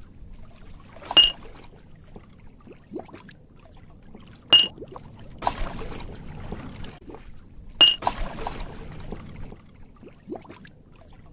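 Cartoon water sound effects: three short, ringing plops about three seconds apart, with sloshing and trickling water after the later two.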